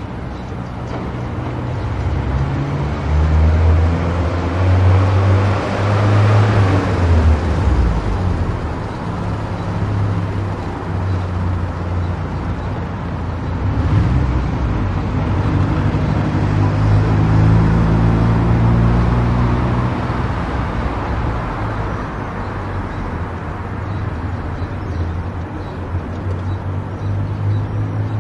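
Car driving on a highway: steady tyre and road noise with a low engine hum, swelling louder about six seconds in and again around seventeen seconds.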